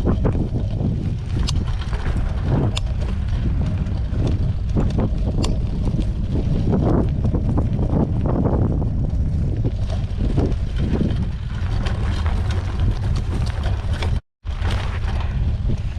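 Wind buffeting the microphone of a camera on a moving mountain bike, with tyre and trail rumble and a few sharp clicks and rattles. The sound cuts out completely for a moment about 14 seconds in.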